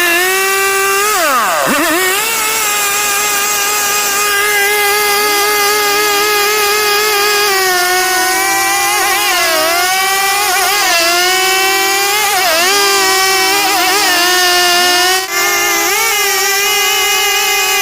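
STIHL two-stroke chainsaw running at high revs while cutting timber. Its pitch drops sharply and recovers about a second and a half in, wavers up and down later as the engine loads in the cut, and cuts out for an instant near the end.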